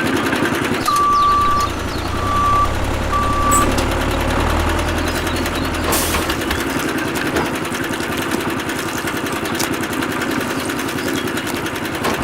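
A reversing alarm beeps three times in the first few seconds, over steady machine or motor running noise that goes on to the end.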